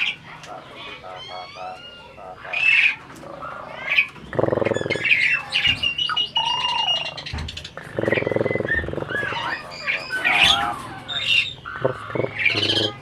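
Asian pied myna (jalak suren) calling: a varied run of whistles, gliding notes and chatter, with harsh raspy squawks about four and a half and eight seconds in.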